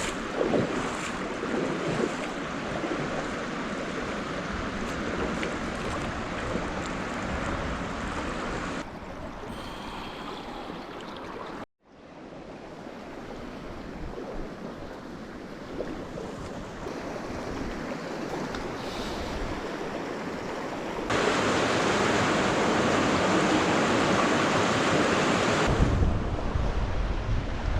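Water of a small stream running, a steady rushing hiss. It cuts out for an instant near the middle and comes back, is louder over the last several seconds, and has a low rumble of wind on the microphone near the end.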